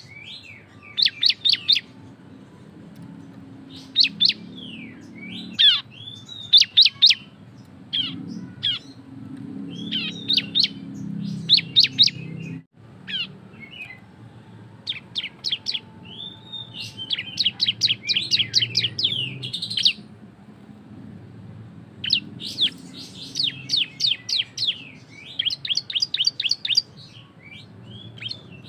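Ciblek (bar-winged prinia) singing loudly in full song, the 'ngebren' style: bursts of rapid, high, sharp repeated notes, many per second, broken by short pauses, over a low steady background hum.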